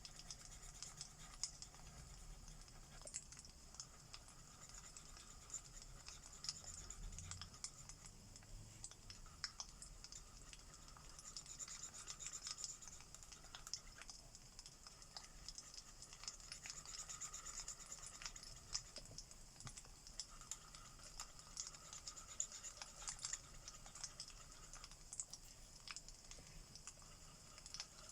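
Faint, irregular crackling and popping of a wood fire, with the soft scratch of alcohol marker strokes on paper coming and going.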